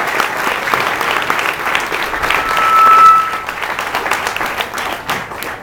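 Crowd applauding. The clapping builds to its loudest about three seconds in, with a short steady high tone over it, then dies away near the end.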